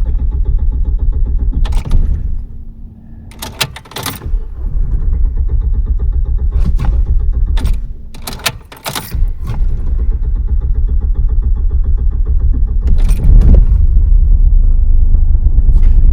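Hard-starting car engine running unevenly: its low rumble sags away twice, each time with clicks and a jingle of keys as it is cranked and caught again, and it runs loudest over the last few seconds.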